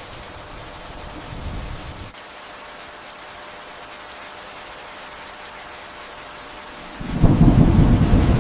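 Steady rain hiss with distant thunder. A low rumble swells about a second and a half in and drops away suddenly, then a much louder low thunder rumble breaks in about seven seconds in.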